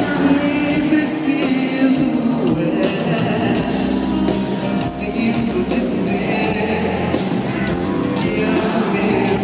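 Live band performance of a ballad with a singer's voice over sustained instruments and a steady beat, recorded at a concert.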